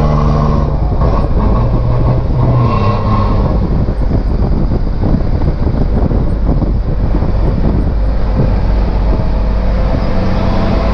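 Heavy truck diesel engine running at road speed, a steady drone whose pitch holds at the start and end, with a rougher, noisier stretch through the middle.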